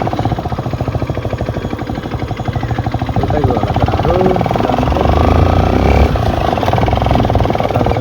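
Motorcycle engine running with a rapid, even firing pulse, getting a little louder past the middle.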